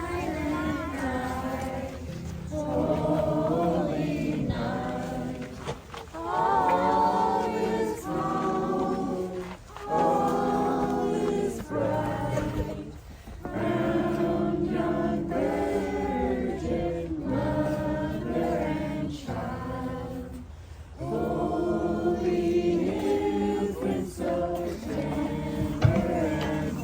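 A choir singing in long, sustained phrases with short breaks between them.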